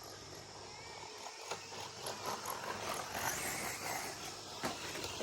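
RC short course trucks racing on a dirt track: a steady hiss of motors and tyres with short whines, and a few sharp knocks from the trucks hitting bumps or landing.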